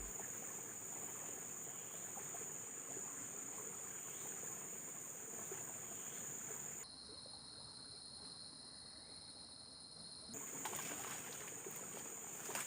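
Insects chirring in a steady, high-pitched drone over faint outdoor background noise. For a few seconds midway the drone changes to a different pitch, then returns.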